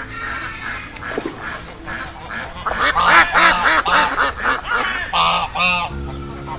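A flock of birds calling: many short, overlapping calls, busiest in the middle and thinning out near the end.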